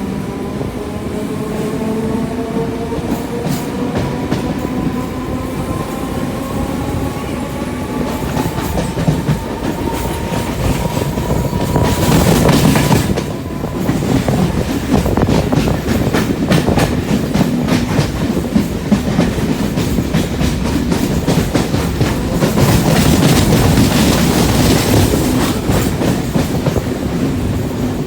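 Local passenger train running at speed, its wheels clattering over the rail joints with a steady rumble. A whine rises in pitch through roughly the first twelve seconds as the train gathers speed. The clatter swells louder about halfway through and again near the end.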